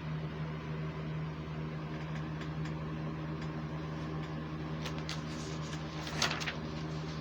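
A steady low hum, as of a fan or appliance running, with a few faint clicks in the second half and one brief louder rustle a little after six seconds.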